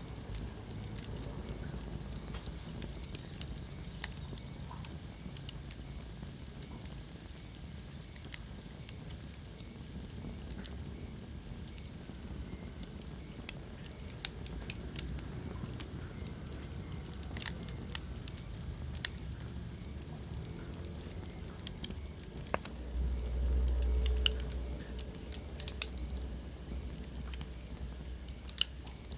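Wood fire burning in a fireplace: a steady low rumble of flames with irregular sharp crackles and pops, and the rumble swells louder for a couple of seconds near the end.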